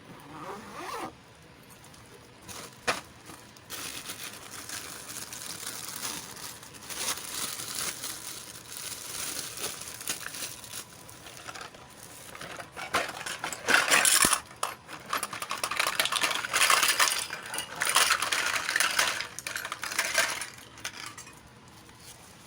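Crinkling and rustling of plastic toy packaging as it is handled, with small plastic clicks. A sharp click about three seconds in; the rustling grows louder in the second half and dies away near the end.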